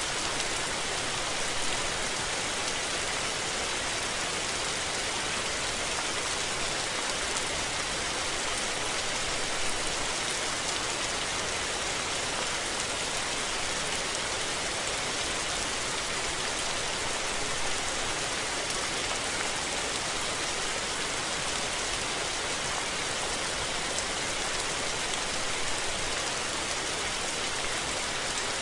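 Steady rain falling, an even hiss of many drops with faint scattered patters and no thunder.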